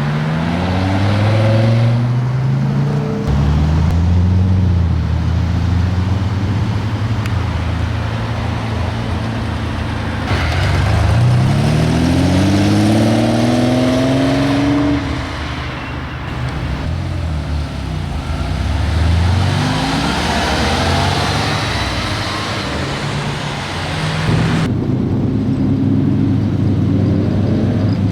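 Lamborghini supercar engines revving and accelerating, in a string of short clips: the engine note climbs sharply in pitch several times, with steadier running between, and the sound changes abruptly at each cut.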